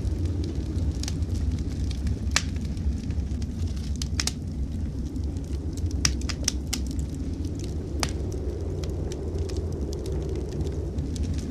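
Wood fire crackling in a fireplace, with scattered sharp pops, a few louder ones, over a steady low rumble.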